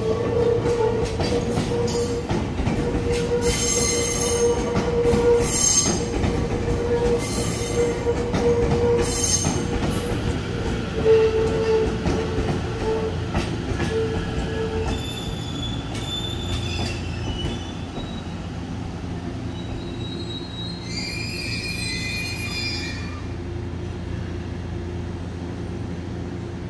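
E257 series limited-express electric train rolling slowly through the station over the rails. A steady rumble and hum run under repeated high-pitched wheel squeals, and the sound slowly fades as the train moves away.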